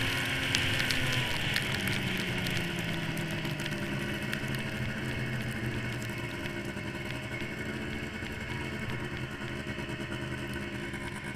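Yamaha SRX700 snowmobile's three-cylinder two-stroke engine running. Its pitch drops between about one and three seconds in as the revs come down, and it then runs steadily at the lower speed.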